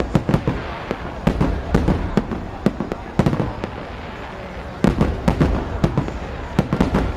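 Aerial fireworks display: shells bursting in irregular clusters of sharp bangs and crackles, over a steady low rumble.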